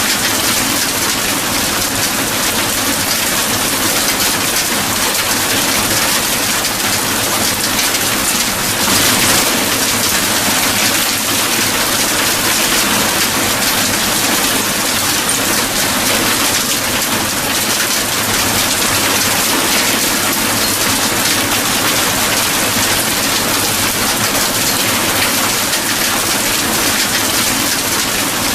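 Steady heavy rain, an even hiss of falling drops that holds constant throughout.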